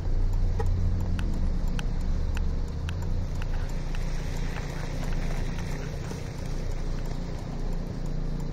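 A car being driven, heard from inside the cabin with a window open: a steady low engine hum and road and tyre noise. A light regular ticking comes about twice a second during the first few seconds.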